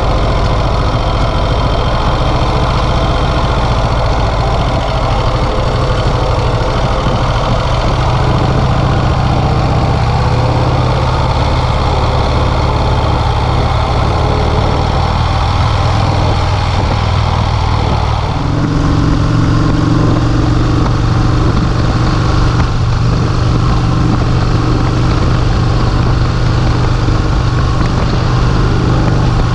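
1951 Vincent Rapide's 998 cc V-twin engine running steadily on the road. The engine note changes about 18 seconds in, then holds steady again.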